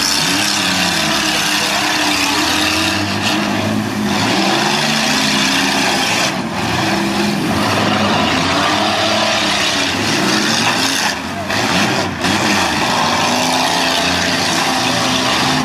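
Several demolition derby cars' engines running loud, their pitch rising and falling as they rev.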